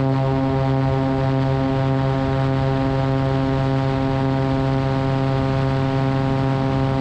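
Cessna 180's six-cylinder Continental O-470 engine and propeller droning steadily in flight, one even, unchanging pitch.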